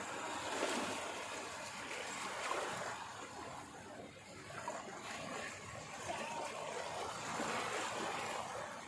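Water washing in uneven surges, swelling and easing every couple of seconds.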